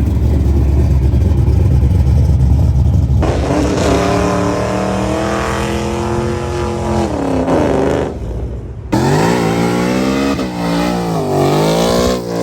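Loud car engine with a deep, rough exhaust rumble, then revving with the pitch rising and falling, and about 9 seconds in another bout of quick revs going up and down.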